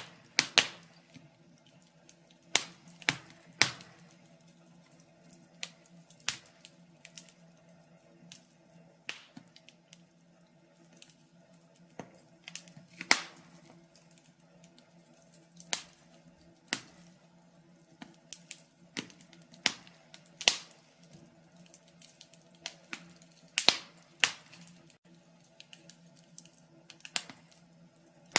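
Wood fire crackling, with irregular sharp pops and snaps at uneven gaps, some much louder than others, over a faint steady hum.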